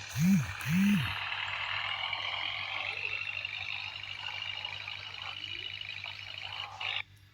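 Two short, loud, low hooting blips, then a vehicle accelerating for several seconds, its whine rising slowly in pitch before it cuts off suddenly.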